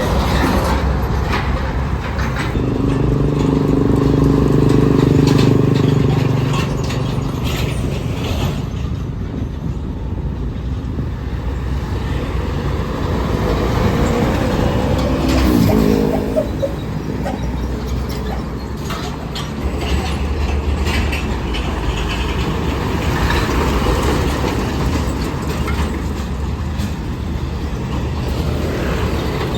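Road traffic of buses, trucks and cars passing, with engines running and a constant low rumble. A heavy vehicle's engine note holds steady about two to six seconds in, and another engine note slides in pitch about halfway through.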